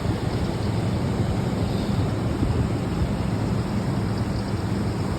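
Steady low hum of an engine running, under a constant rush of wind and surf.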